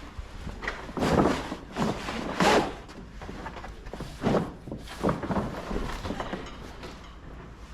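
Canvas top and its edge being handled and pulled in the Jeep's top channel: several short bursts of rustling and scraping, the loudest about a second and two seconds in.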